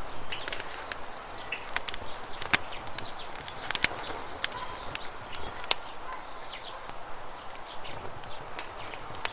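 Campfire crackling with irregular sharp pops, over the steady rush of river water, with small birds chirping now and then.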